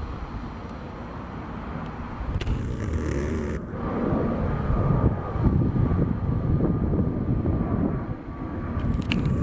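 Military aircraft engines running: a low rumble that grows louder after about four seconds, when a steady whine comes in, with wind on the microphone.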